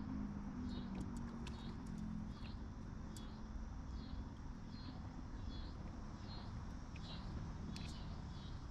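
Outdoor ambience: a high chirping call repeated steadily, about one and a half times a second, over a low rumble. A low hum fades out a couple of seconds in.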